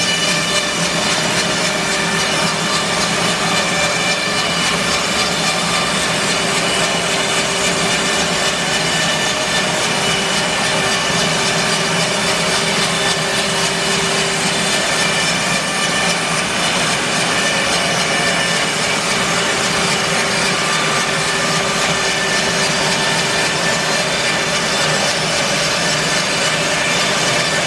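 Bandsaw mill sawing through an English larch log: the mill's engine runs steadily under load with the hiss of the blade in the wood. It goes on without a break.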